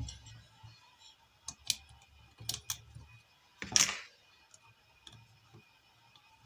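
Irregular small clicks and taps of tools and parts being handled on a workbench, several single knocks with a short scrape or rustle a little under four seconds in.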